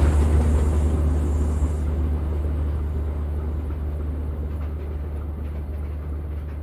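A steady low rumble that fades away gradually.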